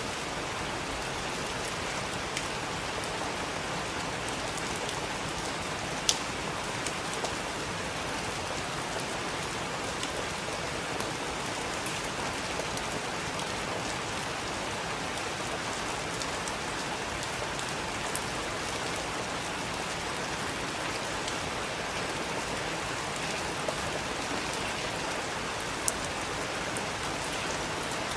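Steady heavy rain with individual drops ticking sharply now and then, a few louder ones standing out.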